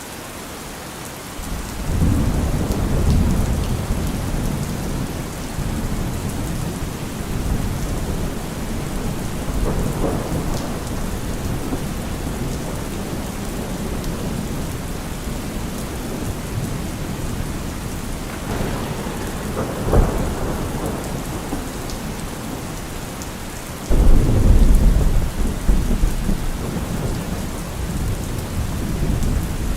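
Heavy rain drumming steadily on a car roof, with thunder rumbling through it. Low rumbles build about two seconds in and again around ten seconds; a sharp crack comes near twenty seconds; the loudest rumble breaks in about twenty-four seconds in.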